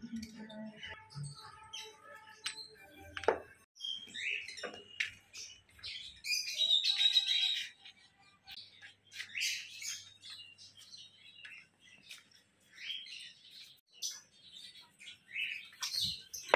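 Small birds chirping and squawking in short, scattered calls, busiest and loudest from about six to seven and a half seconds in.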